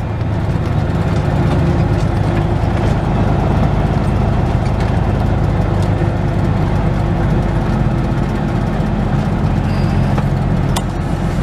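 Semi truck's diesel engine running steadily at low speed, heard from inside the cab.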